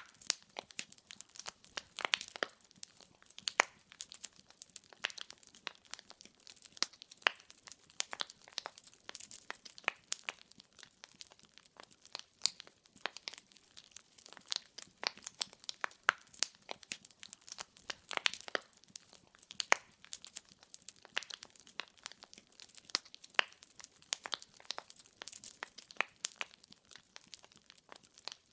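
Firewood crackling and popping as it burns in a fireplace: a steady scatter of sharp snaps at an uneven rate, some louder than others, over a faint hiss.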